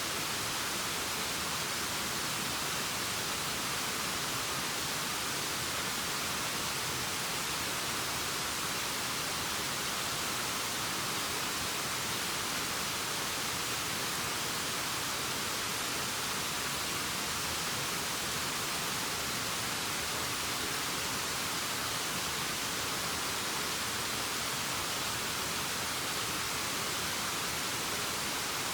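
Steady, unbroken rush of a waterfall, an even hiss with little low rumble.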